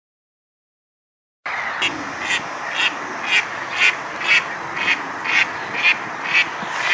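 Duck quacking over and over, about two quacks a second, over a steady background hiss; it starts about a second and a half in.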